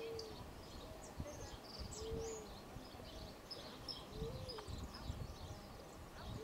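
Small birds chirping and twittering faintly in open pasture, with a short low hooting call repeated about every two seconds.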